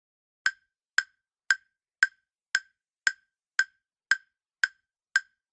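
Quiz countdown-timer sound effect: ten short, sharp ticks, evenly spaced at about two a second, with dead silence between them.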